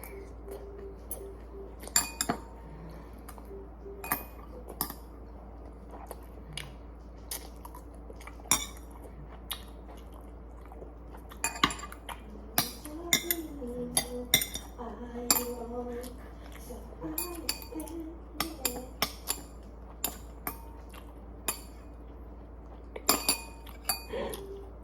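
Eating utensils clicking and clinking against dishes in irregular single strikes and quick clusters, busiest through the middle and again near the end.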